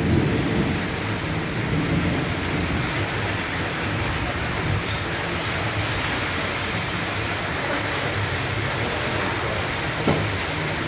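Heavy tropical downpour falling steadily, with low thunder rumbling near the start. One sharp knock comes near the end.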